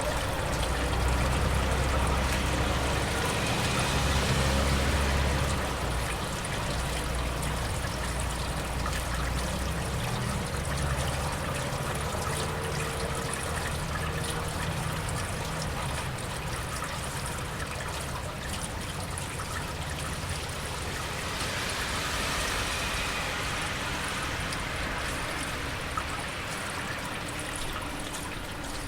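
Steady rain with water trickling, and a low rumble that is loudest in the first few seconds and fades out about ten seconds in. The hiss of tyres on a wet road swells and fades twice as vehicles pass.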